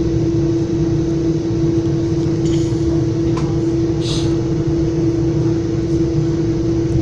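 Metra commuter train car running: a steady low rumble with a constant droning hum. Two brief high hisses come about two and a half and four seconds in.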